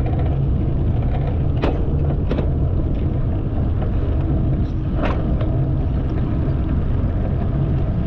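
Steady low rumble of wind and tyre noise from riding a bicycle along a path, with a few brief high chirps or clicks, at about 1.5, 2.5 and 5 seconds in.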